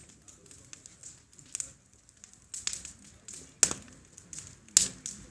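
Wood bonfire crackling, with scattered sharp pops; the two loudest come about three and a half and nearly five seconds in.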